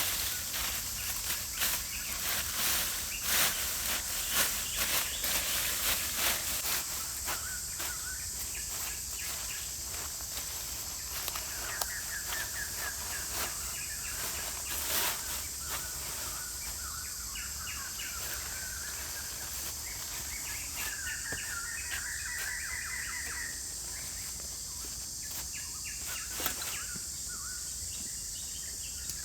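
Forest ambience: a steady high insect drone with birds calling in short trills now and then. During the first several seconds there are many sharp clicks and knocks, which then die away.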